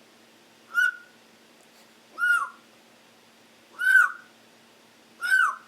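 A pet bird calling four times, about a second and a half apart, each call a short note that rises and falls in pitch.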